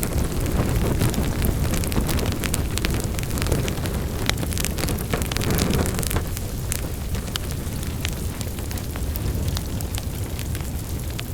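Wood fire burning in a fireplace: a steady low rumble of flames with many sharp crackles and pops.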